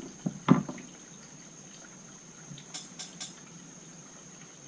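Small tools and carburetor parts handled on a workbench: a knock about half a second in, then three quick light clicks near the middle, over a faint steady high-pitched tone.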